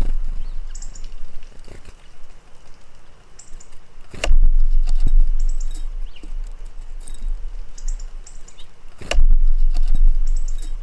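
Small birds giving short, high chirps in scattered little clusters, over a loud low rumble that swells suddenly twice, about four and nine seconds in.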